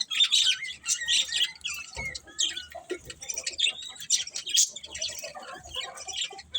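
Budgerigars chirping and warbling, a busy stream of quick, high overlapping calls.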